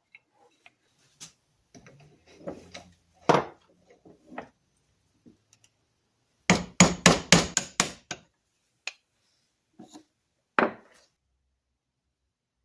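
Hand tools knocking and tapping on a workbench: a few scattered knocks, then a quick run of about seven sharp taps a little past halfway, and one more knock near the end.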